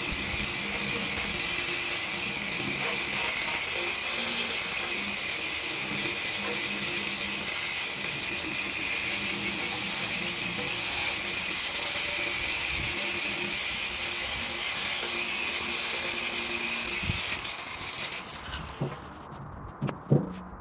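A shop tool runs with a steady high hiss and whine, then cuts off about 17 seconds in; a few sharp knocks follow near the end.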